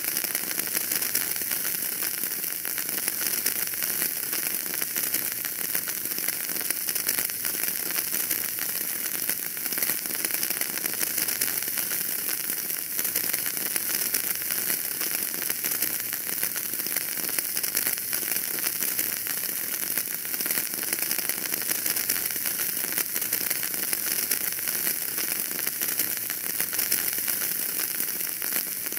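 Wood fire burning in a fireplace: a steady hiss with many small crackles and pops.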